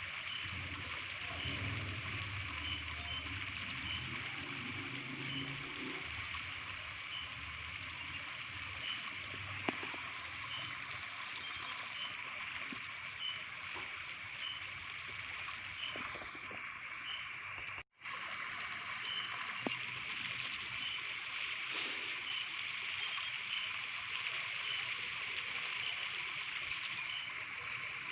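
Steady hiss of running water with faint, regular chirping about once a second. The sound cuts out for an instant about 18 seconds in.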